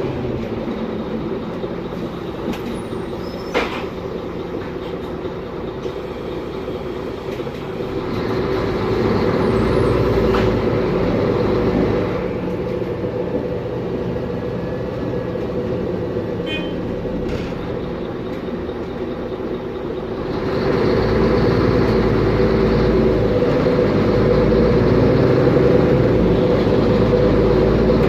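Mercedes-Benz Conecto G bus's OM457LA diesel engine and drivetrain running while the bus drives, with a steady whine from the differential. The engine pulls harder about eight seconds in and again about twenty seconds in, and a sharp click sounds a few seconds in.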